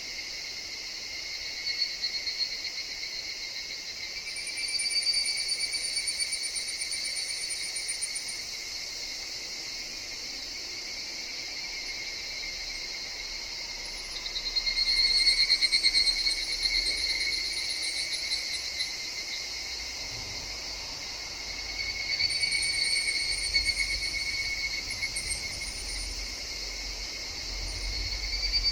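Higurashi evening cicadas calling in a forest: three times a rapid trilling call swells up, holds for a few seconds and fades, over a steady high drone of other insects.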